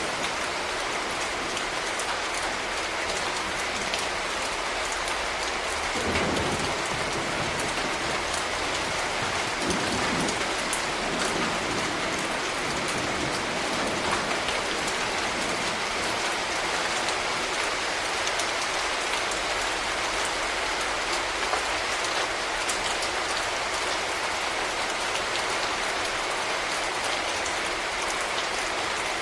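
Steady rain falling, with many separate drops ticking on surfaces. A brief low rumble comes about six seconds in and again around ten seconds.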